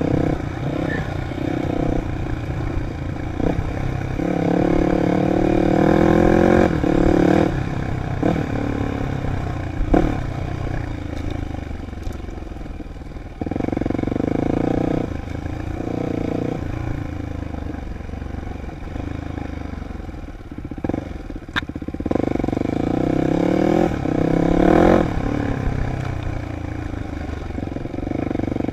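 Dirt bike engine revving up and easing off in repeated surges as it is ridden, with a few sharp knocks in between.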